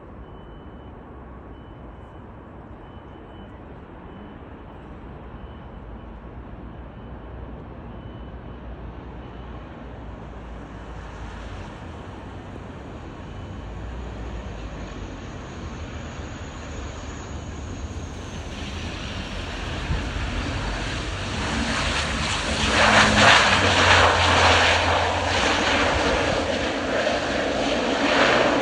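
Turboprop airliner coming in to land, its engine and propeller noise growing steadily louder as it nears, with a high whine that drops in pitch a little past halfway; it is loudest in the last quarter as it passes close. Wind rumbles on the microphone underneath.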